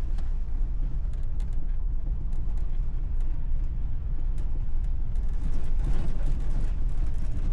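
Volkswagen Vanagon Syncro driving slowly over snow and ice: a steady low engine and drivetrain rumble with scattered small clicks.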